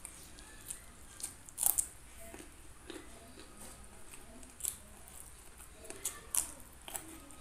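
Close-up crunching and chewing of raw green beans: crisp snapping crunches every second or so, loudest just before two seconds in and again around six seconds in.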